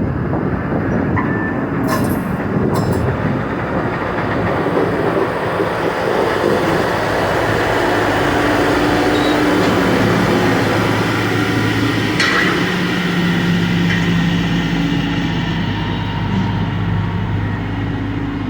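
Freight train rolling past close by: a steady rumble and rattle of wagons on the track, with a low steady hum coming in about a quarter of the way through and a couple of brief sharp clicks.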